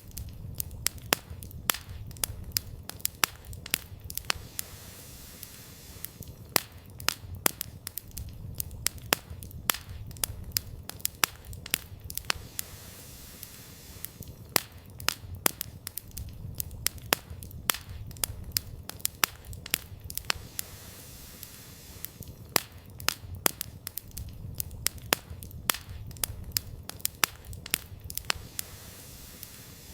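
Campfire of burning firewood crackling, with frequent sharp pops and snaps scattered irregularly over a low steady rumble of the flames.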